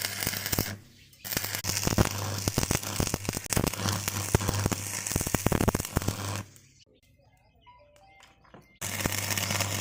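Electric arc welding: a crackling arc over a steady electrical hum, which stops about two-thirds of the way through and strikes up again near the end.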